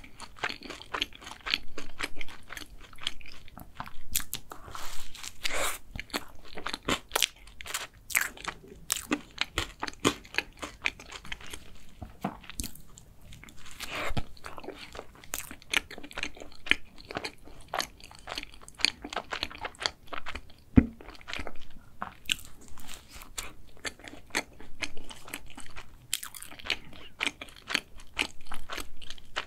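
Close-miked biting and chewing of a cream-topped chocolate cake: soft crunches and many small, sharp, wet mouth clicks coming irregularly, with a bite about two thirds of the way through.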